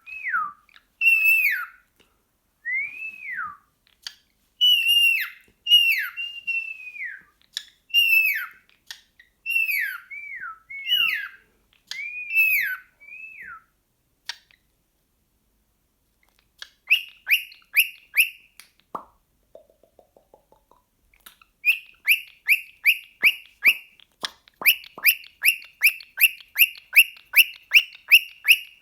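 Excited cockatiel calling: a string of loud whistles, each falling steeply in pitch, about one a second, then after a short pause a brief low rasp and a fast run of sharp repeated chirps, about three a second, that keeps going steadily.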